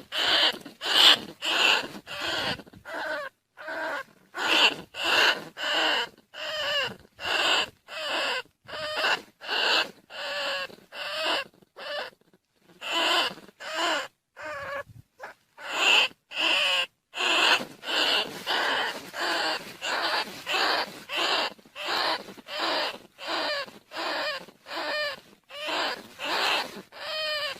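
Rats squealing, played as a lure call for rice-field rats and bandicoot rats: a rapid run of short, wavering squeaks, about two a second, with a couple of short pauses.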